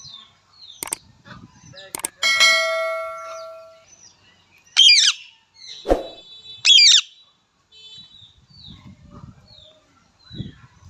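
Indian ringneck parrot giving two loud, harsh screeches about four and six seconds in, with faint short chirps between. About two seconds in there is a ringing tone that fades out over a second and a half, and there are a few sharp knocks.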